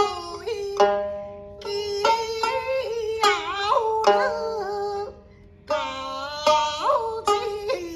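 Nanguan (Southern Pipes) song: a drawn-out, sliding vocal line over plucked-string notes that ring on after each pluck, with a brief quieter lull about five seconds in.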